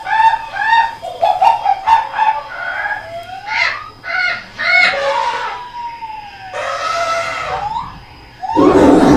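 A run of high, animal-like jungle calls: quick repeated whooping notes at first, then longer cries that slide up and down in pitch, with a loud burst near the end.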